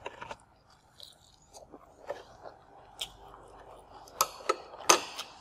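Close-up chewing of food in the mouth, wet and crackly, with a few louder, sharper crunches about four seconds in.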